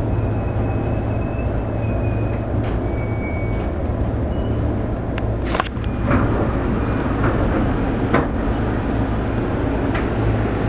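Yamanote Line E231-500 series commuter train running, heard from inside the front car: a steady low rumble and hum with a few sharp clicks scattered through it.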